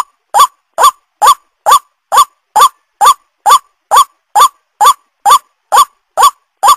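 White-breasted waterhen lure call: a short, harsh, upward-bending 'kwak' repeated evenly a little over twice a second, with silent gaps between calls.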